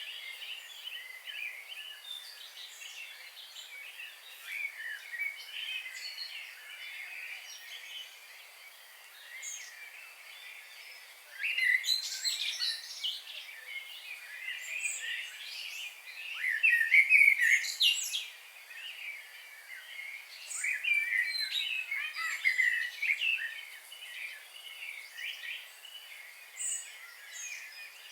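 Several birds chirping and singing at once, a busy chorus of short, overlapping calls and trills, louder about 12 seconds in and again around 17 seconds.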